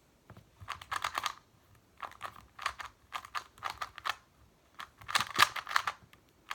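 YuXin Little Magic non-magnetic 2x2 speedcube being turned fast during a timed solve: flurries of rapid plastic clicking with short pauses between them, the loudest flurry about five seconds in.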